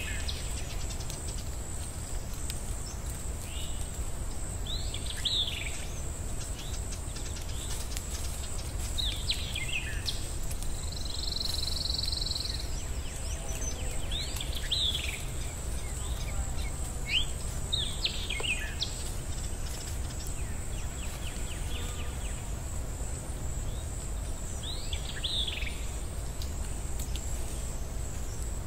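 Birds chirping: short falling calls every few seconds, over a steady high tone and a constant low rumble, like an outdoor nature ambience.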